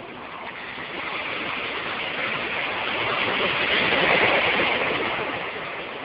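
Sea surf: a wave breaking and rushing in, swelling to its loudest about four seconds in and then fading.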